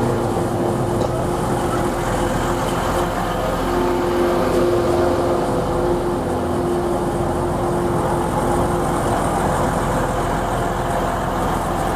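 Class 185 diesel multiple unit's engines running with a steady, unchanging hum.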